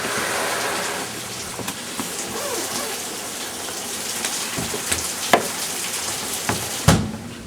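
Steady rain falling and pattering on surfaces, with scattered small knocks and a louder thump near the end, after which the rain sound drops away.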